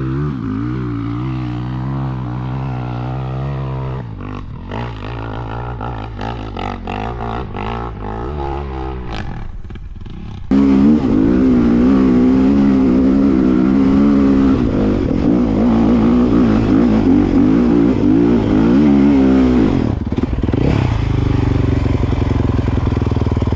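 Dirt bike engine running, softer and varying at first, then about ten seconds in it jumps sharply louder and revs hard for about ten seconds before easing off a little. This is a push up a slick hill on a bald rear tire.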